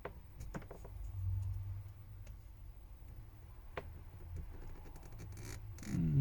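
Light clicks and taps of small tools against the plastic and metal parts of a smartphone being disassembled, a few at a time, over a low hum. A short falling vocal sound comes near the end.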